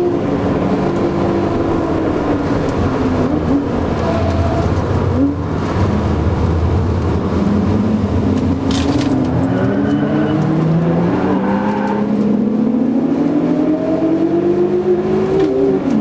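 BMW Z3 2.8's straight-six engine, heard from inside the cabin while driven hard. Its note falls as the car slows, breaks briefly at a gear change about five seconds in, then climbs steadily under acceleration and drops sharply at an upshift near the end.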